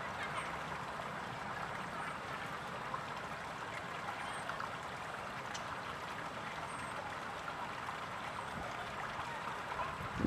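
Steady trickle of flowing water, with a few faint high chirps.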